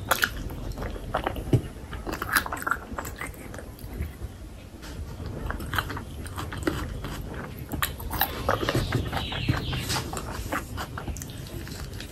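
Close-miked chewing and wet mouth sounds of a person eating rice and fatty pork curry by hand: irregular sticky smacks and clicks of lips and mouth.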